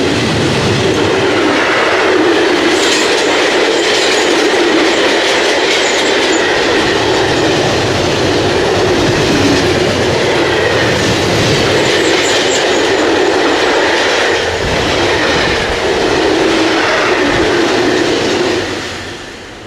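A train passing close by: a loud, steady rumble of wheels on rail with clickety-clack over the rail joints and a faint high wheel squeal, fading quickly near the end as the last wagons go by.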